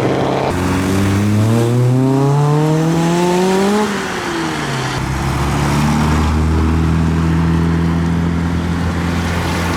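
A modified car's engine revving up in one long rising pull for about three seconds, then falling away, followed by a steady low engine drone.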